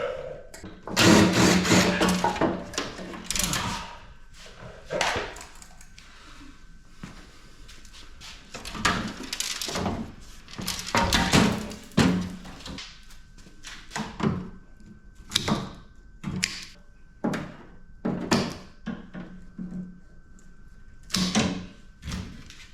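Sheet-metal parts of a PTAC air-conditioning unit being worked apart: repeated knocks and clatter of metal panels and parts, with several short bursts of a power driver running as screws are backed out.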